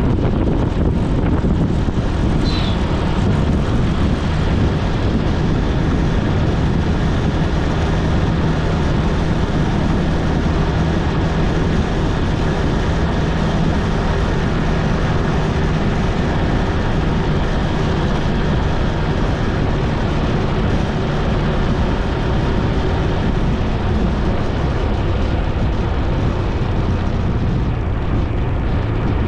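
Motorcycle engine running steadily under way, mixed with wind and road noise, with a brief high chirp about two and a half seconds in.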